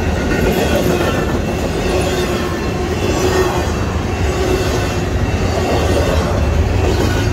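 Union Pacific intermodal freight train's cars rolling past, a steady loud rumble of steel wheels on the rails with faint squealing tones over it.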